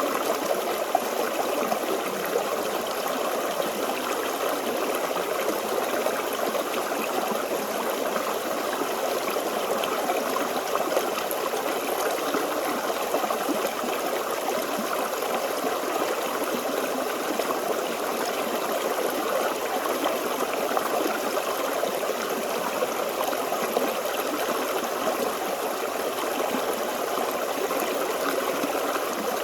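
A shallow stream flowing and babbling steadily over stones, an even rush of water with constant small gurgles.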